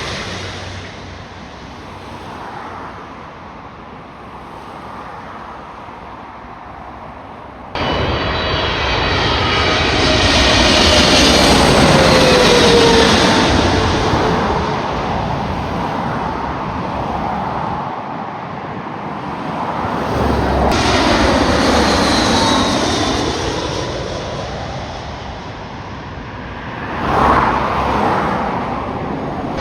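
Jet airliners passing overhead, their engine noise swelling and fading, with a whine that falls in pitch as each one goes by. The sound jumps up suddenly about eight seconds in and swells again later.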